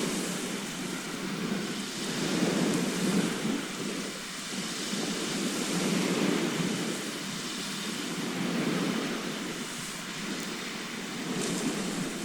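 Sea waves breaking and washing on a shore, a continuous rushing surf with a low rumble that swells and eases every few seconds.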